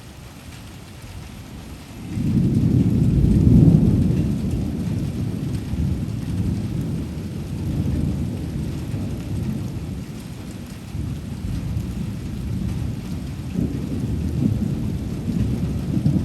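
Rain falling steadily, with a long roll of thunder. The thunder comes in suddenly about two seconds in, is loudest a couple of seconds later, and keeps rumbling, swelling again near the end.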